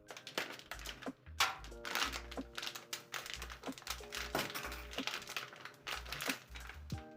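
Rustling and crinkling with sharp clicks and taps as things are handled in a kitchen, over soft background music with held notes and a low bass line.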